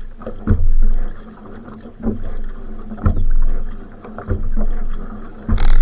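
Va'a (outrigger canoe) paddled at sprint pace: water rushing and splashing with a surge and low thump about once a second, in time with the paddle strokes, and a sharper splash near the end.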